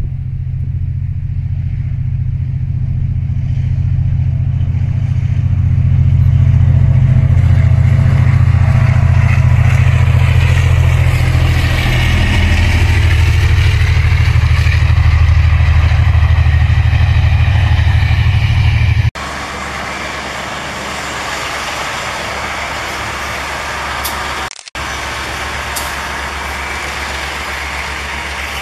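Diesel-hauled passenger train passing: a deep, steady engine drone with the rolling of wheels on rail. About two-thirds of the way through, the sound cuts abruptly to a closer, quieter rolling pass of the train's diesel power van.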